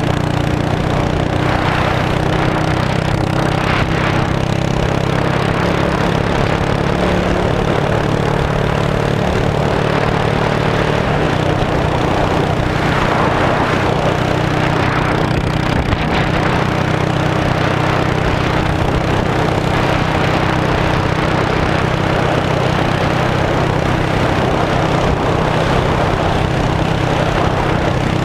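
Straight-piped Yamaha V-Star 650 air-cooled V-twin running at a steady speed, with one brief sharp pop about halfway through.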